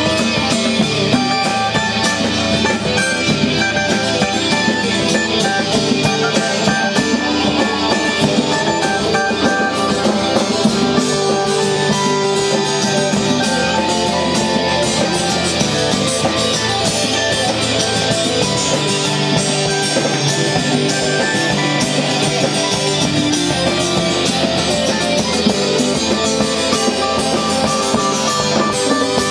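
Live band playing an instrumental rock jam, with guitars over a drum and percussion groove.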